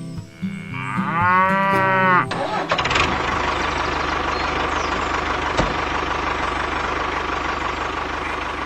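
A cow moos once, about a second in, over background music. Then, a little under three seconds in, an engine starts and runs steadily with an even, low pulse.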